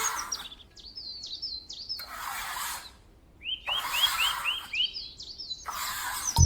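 Small birds chirping in quick series of short, high notes, including a run of about six rising chirps in the middle, with a few short patches of hiss between them.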